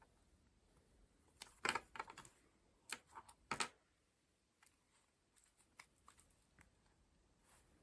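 Paper collage pages being handled and turned: two brief clusters of crisp paper rustles and taps, followed by a few faint ticks.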